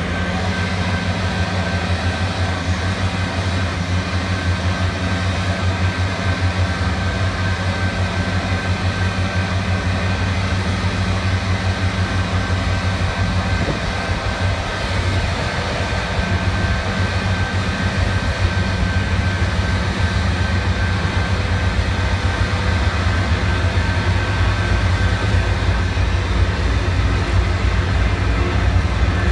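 BNSF intermodal freight train's diesel locomotives approaching, a steady low rumble that grows louder toward the end as the lead units close in.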